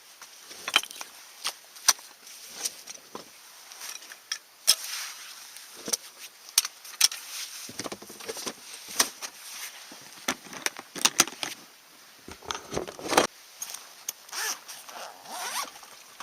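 Camping gear being handled: irregular clicks, knocks and rustling scrapes, busiest about twelve to thirteen seconds in.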